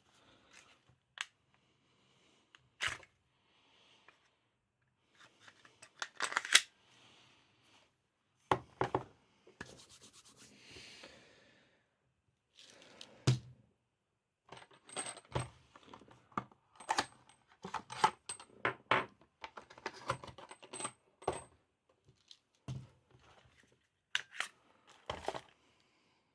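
Clicks, clacks and rubbing of an airsoft pistol and its parts being handled, with a busy run of clicks in the second half.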